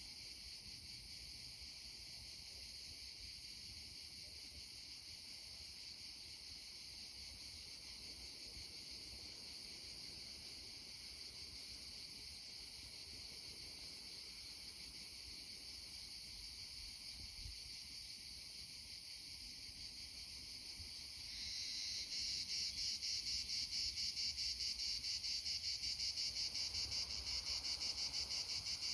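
A steady, high-pitched chorus of insects chirring. About 21 seconds in, a louder, nearer insect joins with a fast pulsing buzz.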